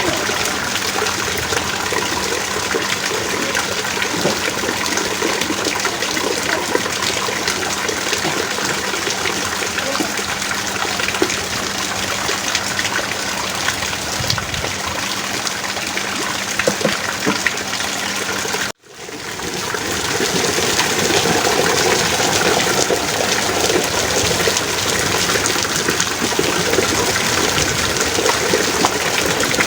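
Heavy rain pouring steadily. About 19 s in the sound cuts out abruptly for a moment, then fades back in.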